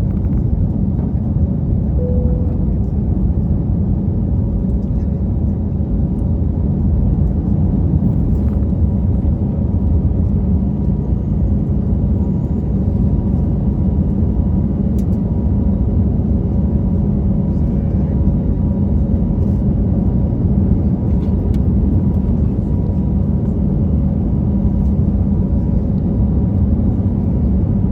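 Airbus A321 cabin noise: a steady low rumble from the jet engines, with a faint constant hum over it.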